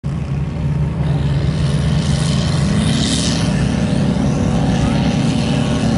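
Mega truck engine running loud, its pitch rising as it revs up about two seconds in, with a brief burst of hiss around the middle.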